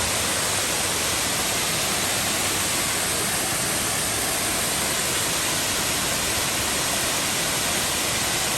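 Brandywine Falls, a 105-foot waterfall, giving a steady, even rush of falling water.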